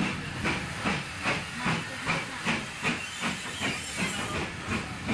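Steam locomotive working, its exhaust chuffing in a steady, even beat of about two and a half chuffs a second.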